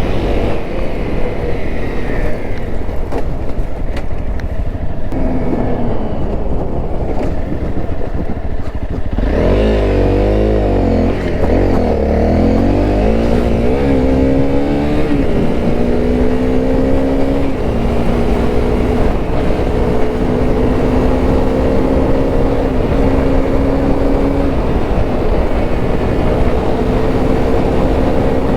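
Honda CRF250L's single-cylinder four-stroke engine running on the move: the revs swing quickly up and down about ten seconds in, then settle to a steady, nearly even pitch.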